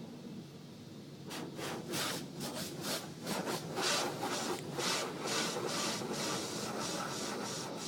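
Car wash brushes rubbing over the car body, heard from inside the car as a quick, irregular series of swishes over a low machine hum; the scrubbing starts about a second in.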